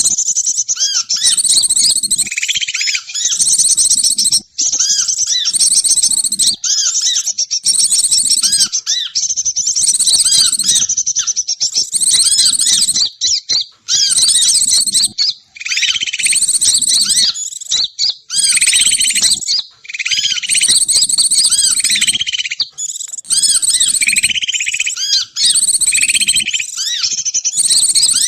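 Bird-lure call recording: rapid, high chirping and trilling bird calls, repeated in loud bursts of a second or two with short breaks between them.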